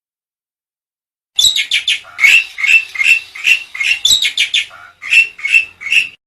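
Black-winged myna (jalak putih) calling: a quick series of loud, clipped notes, about two to three a second. It starts about a second and a half in and stops abruptly near the end.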